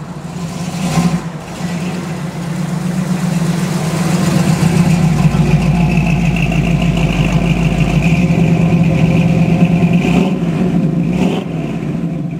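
1969 Camaro SS 396's big-block V8 running with a steady low note. It grows louder a few seconds in, holds, then eases off near the end, with a short sharp knock about a second in and another near the end.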